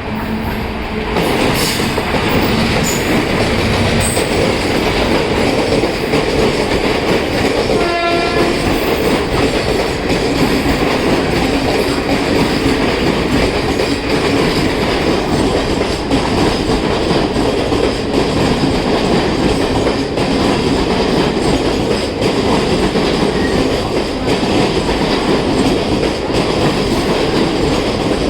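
Express train hauled by a WAG-5A electric locomotive running into the station: its coaches rumble and clatter over the rail joints, loud and steady once the train reaches the microphone about a second in. A short horn note sounds about eight seconds in.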